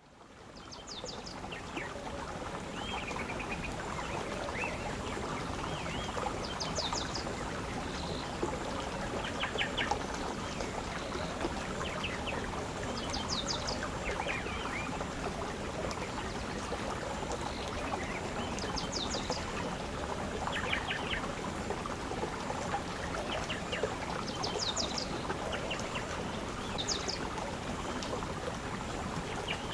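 Small birds chirping, with short quick series of high notes every few seconds, over a steady rushing sound like flowing water. The sound fades in over the first second or two.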